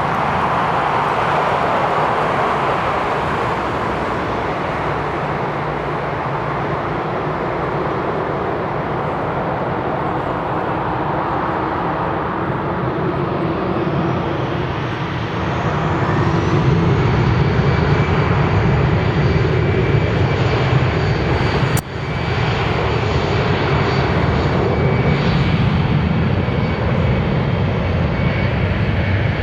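Jet airliner's engines at takeoff power, a steady loud noise that grows louder about halfway through as high engine whines rise in pitch and then hold. A brief dropout with a click comes near the end.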